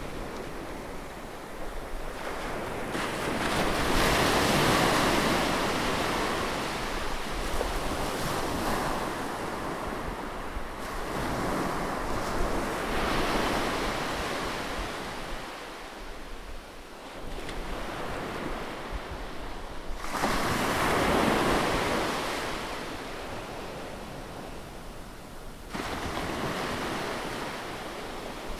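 Ocean waves breaking and washing onto the shore, the surf swelling up and falling back in slow surges several seconds apart.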